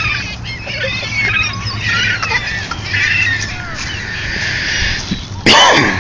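A flock of seagulls calling over one another in many short, overlapping cries while being fed bread, with one loud cry falling steeply in pitch near the end.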